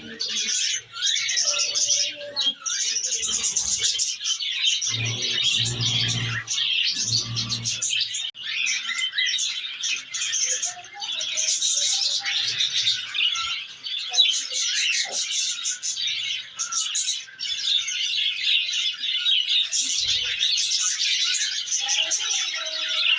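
Budgerigars chattering and chirping without a break, many quick overlapping calls.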